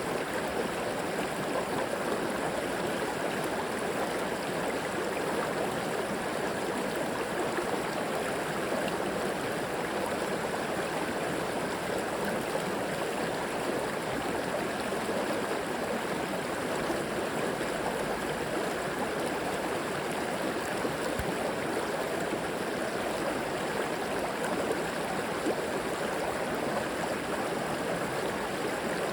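River water flowing steadily over rocks, a continuous rushing and gurgling without pauses.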